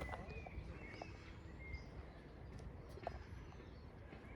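Faint outdoor ambience: a few short bird chirps over a low, steady rumble.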